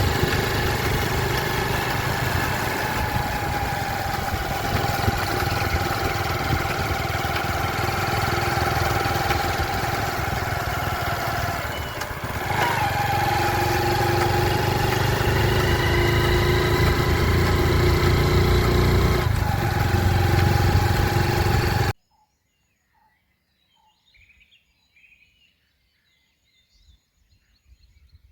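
A vehicle engine running steadily, with a few pitched tones that drop and shift about halfway through. A little after three quarters of the way in it cuts off abruptly to near quiet with a few faint bird chirps.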